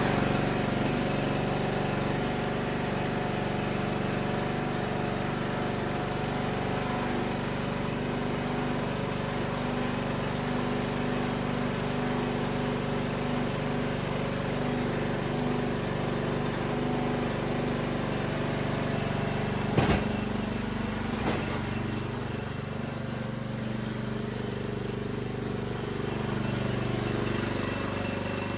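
Riding lawnmower engine, just started, running steadily. A sharp click comes about 20 seconds in and another a second later, and the engine runs a little quieter after that.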